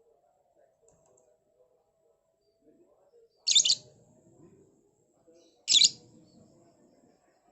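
Lovebird giving two short, shrill chirp bursts about two seconds apart.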